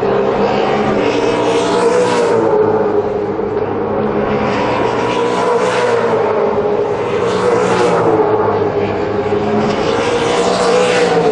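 V8 Supercar race engine running hard at high revs, its pitch held with slight wavering, with several swells of rushing noise along the way.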